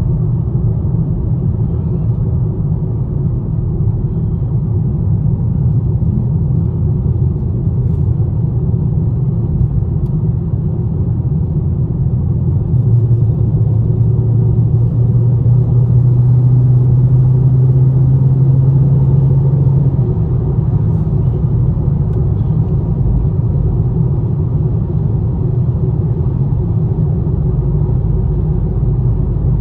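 Chrysler 392 Hemi 6.4-litre V8 running with a steady low rumble, its tone growing stronger and louder from about 13 to 20 seconds in.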